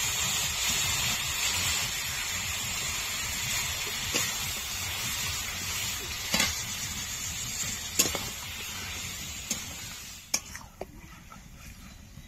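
Mutton and spice pastes sizzling in a pot as the spice-rinsing water goes in, the sizzle dying down about ten seconds in. A spoon stirring knocks against the pot several times.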